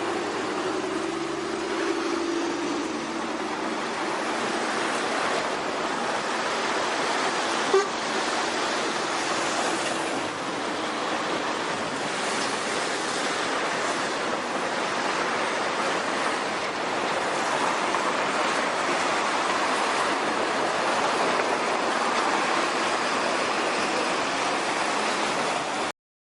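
Steady roadside traffic noise: vehicles rolling past on a road, with a faint pitched engine tone in the first few seconds and a single sharp click about eight seconds in. The sound cuts off abruptly just before the end.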